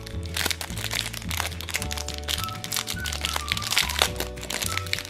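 Thin clear plastic wrapper crinkling and crackling as fingers peel it off a small round plastic badge, over background music with a steady bass line.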